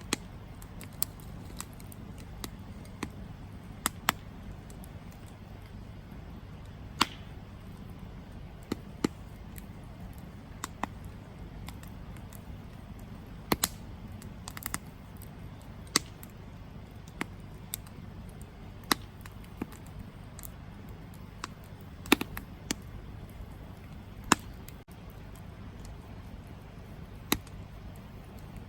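Campfire crackling: irregular sharp pops and snaps of burning wood over a steady low rumble of the flames. The loudest pops come about three quarters of the way through.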